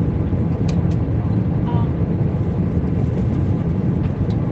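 Steady low hum of cabin noise inside an Airbus A320 in flight, the engines and airflow making an even rumble, with a few faint ticks.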